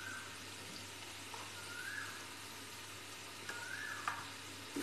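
Onion-tomato masala with freshly added ground spices sizzling gently in oil in a steel kadai: a faint steady hiss, with a few light clicks and short chirping tones.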